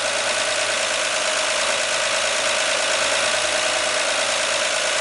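Engine of a 1959 Ford ice cream truck idling steadily, warmed up, with the choke pushed all the way in.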